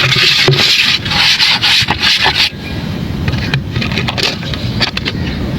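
Dry crumbly chunks being crushed and rubbed between the fingers: a dense, gritty crunching for about two and a half seconds, then quieter scraping with a few sharp cracks.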